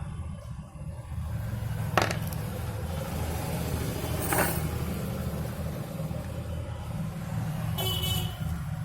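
Steady low rumble of road traffic, with two sharp clicks about two and four and a half seconds in and a brief horn-like toot near the end.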